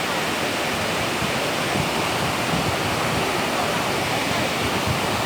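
Korbu waterfall: falling water making a steady, even rushing noise.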